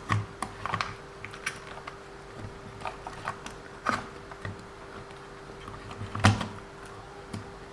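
Scattered light clicks and taps of small plastic and metal parts being handled as an RC car chassis is reassembled, with a sharper knock about six seconds in. A faint steady hum runs underneath.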